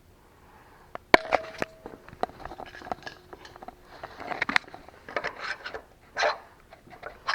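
Irregular clicks, clinks and scrapes of hand tools and metal parts being handled, starting about a second in; one clink rings briefly.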